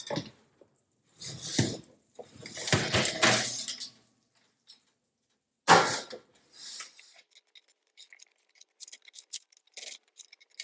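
Handling noises of dishes or glassware: a few brief clattering bursts, one sharp knock about six seconds in, then small scattered clicks.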